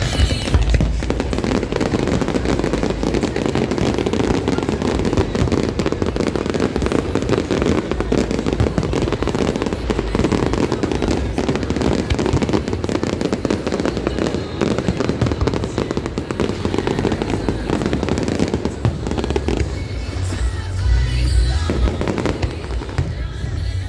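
Aerial fireworks going off in quick succession: dense crackling over deep booms, heaviest near the start and again in the last few seconds. Music plays alongside.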